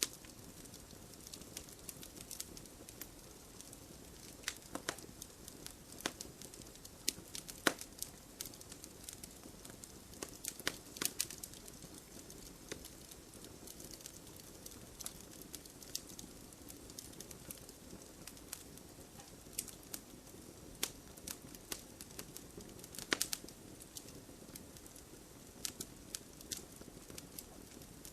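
Wood fire burning in a fireplace: a steady low hiss of flames under irregular sharp crackles and pops from the burning logs, with a few louder pops.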